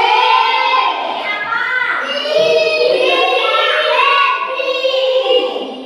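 Children singing a song together, with sustained sung notes throughout.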